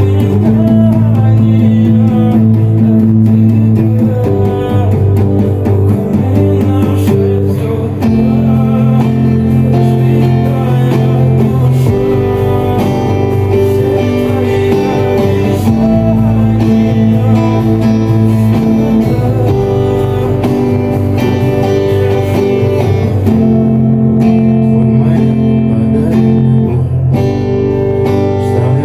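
Guitar-led music with no words: a chord progression whose chords change about every four seconds.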